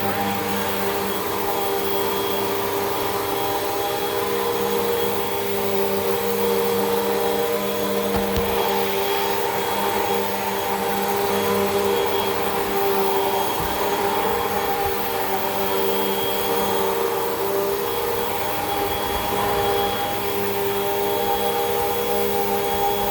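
Hoover WindTunnel 2 Rewind upright vacuum cleaner running steadily, a constant motor whine over airflow hiss that swells and eases slightly in level.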